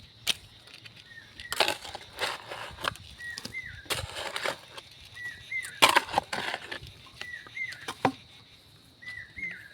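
Irregular crunching and scraping of soil being pushed in around a freshly planted sapling, in uneven strokes. A bird repeats a short two-note chirp about every two seconds, over a faint steady high insect-like tone.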